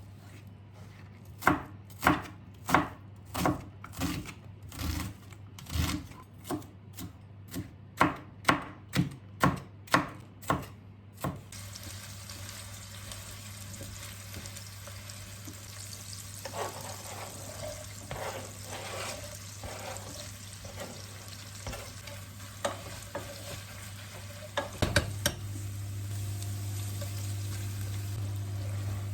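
A knife chopping food on a cutting board, about one and a half chops a second for roughly the first eleven seconds. Then food sizzles steadily in a frying pan while it is stirred, with utensil scrapes and clinks. A few knocks come near the end, and a low steady hum grows louder.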